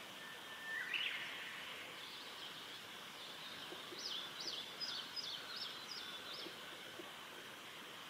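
Wild birds singing: a held whistle that breaks upward into higher notes about a second in, then a quick run of about six sharp, rising high notes in the middle, over a steady high hiss.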